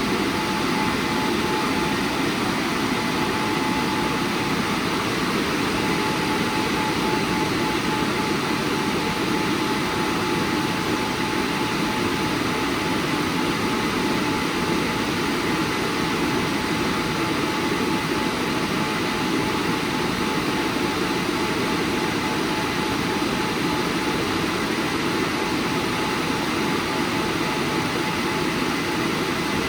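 WashTec SoftCare² Pro rollover car wash running, a loud steady rushing noise with a faint constant whine.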